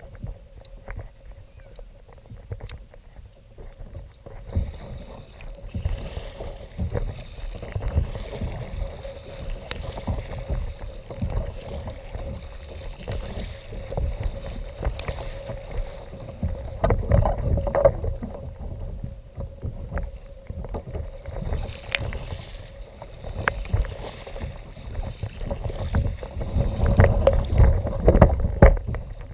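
Kayak on the water: water sloshing and splashing around the hull with occasional knocks, and wind rumbling on the microphone. A faint steady tone sits under it throughout.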